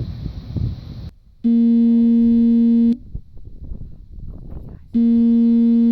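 A loud, steady electronic buzzing tone sounds twice, the first about a second and a half long and the second starting about two seconds later, with faint wind noise and murmuring between.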